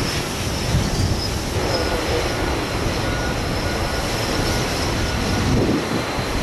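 Strong gusty wind rushing over the microphone, mixed with the steady rumble of jet airliner engines.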